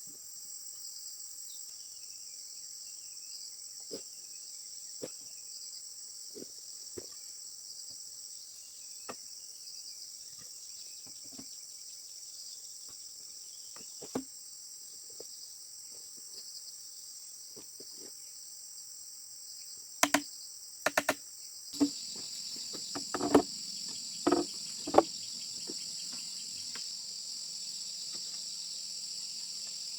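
Steady, high-pitched insect chorus throughout, with scattered light taps and a cluster of louder sharp knocks about two-thirds of the way through.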